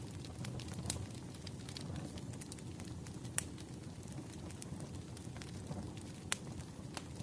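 Burning firewood crackling: a steady low rumble with scattered sharp snaps and pops, the loudest about three and a half and six seconds in.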